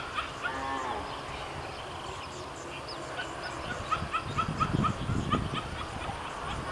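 Birds calling: short repeated chirps that settle into a regular series of about three notes a second from about halfway, with a low rumbling noise around the middle.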